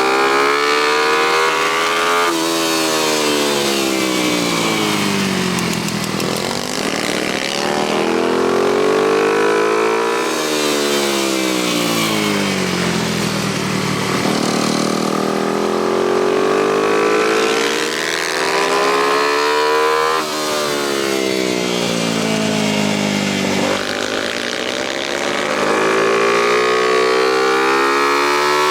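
Single-cylinder motorcycle engine being ridden hard around a tight track. It revs up repeatedly, its pitch climbing, then drops off sharply when the throttle closes for corners, in cycles of several seconds.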